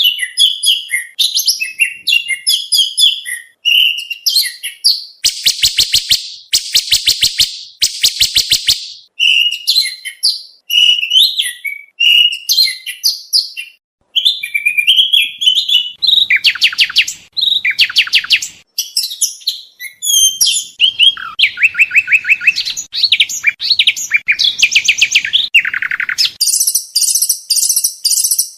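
Oriental magpie-robin (kacer) singing a long, varied song of quick chirps and whistled phrases, broken by several fast rattling trills and a high buzzy run near the end: a rich song full of borrowed phrases, used as a training recording for competition birds.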